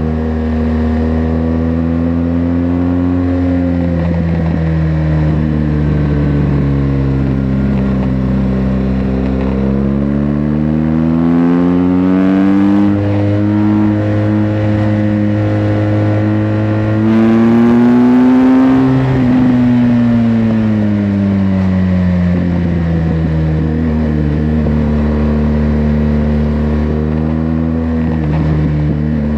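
BMW R1200GS LC's boxer twin engine through its stock exhaust, running with its revs rising and falling slowly over many seconds. The pitch climbs to its highest and loudest about two-thirds of the way through, then drops back and climbs again near the end.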